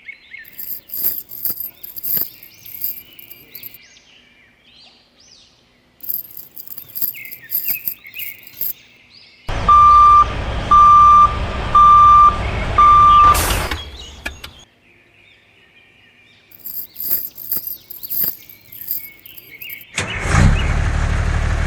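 Birds chirping in short spells. In the middle come four loud, evenly spaced beeps of one pitch over a hiss, and near the end an engine starts and keeps running steadily.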